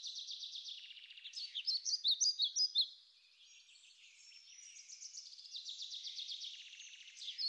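Songbirds singing: quick high chirping phrases and trills, loudest about two seconds in, with a fast run of rapid notes near the end.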